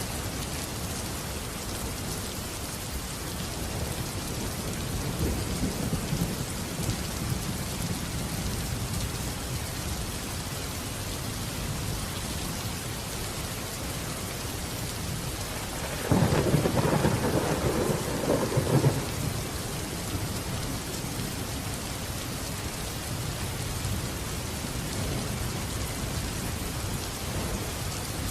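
Steady heavy rain hissing, with low rumbles of thunder; a louder, sharper thunderclap rolls for about three seconds a little past the middle.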